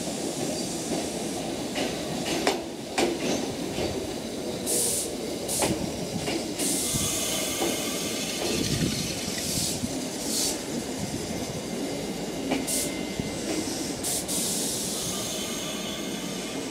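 Mizuma Railway 1000 series two-car electric multiple unit pulling slowly into a terminus platform. Its wheels click over rail joints during the first few seconds, then come repeated bursts of high air hissing as it slows.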